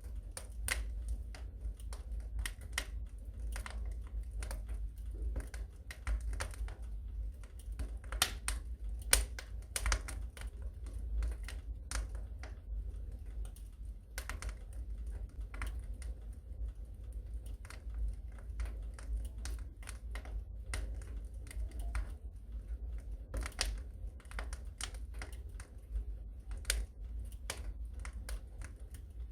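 Wood fire burning in a fireplace, crackling with irregular pops and snaps over a low steady rumble; the loudest snap comes about nine seconds in.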